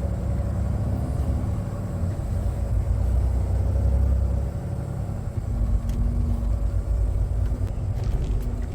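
Semi truck's diesel engine running under load as the truck pulls away, a heavy low rumble with a steady engine hum; the engine note changes with a brief dip in loudness about five seconds in.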